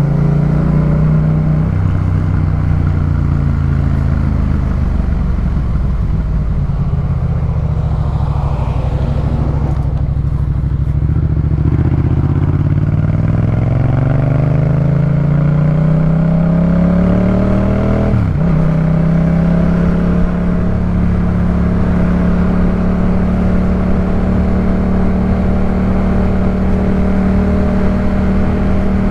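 Yamaha MT-07 parallel-twin engine with a Jeskap K4 full exhaust system, ridden at speed: the engine note climbs steadily under acceleration, drops sharply at a gear change about two-thirds of the way in, then holds steady.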